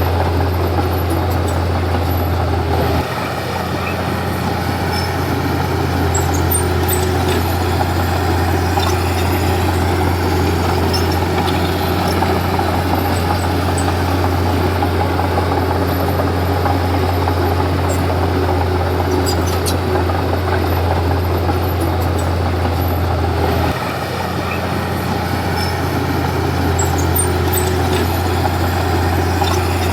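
Komatsu D31P bulldozer's diesel engine running steadily as it works, its low drone dipping briefly about three seconds in and again about three-quarters of the way through before picking back up.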